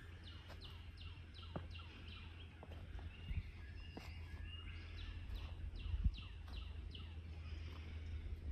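A bird singing two runs of quick, falling chirps, each about two seconds long, over a steady low rumble on the microphone, with a few soft footfalls on the leaf-littered trail.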